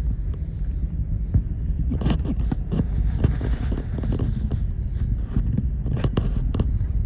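SpaceX rocket launch heard from a distance: a deep, steady rumble broken by sharp, irregular crackles.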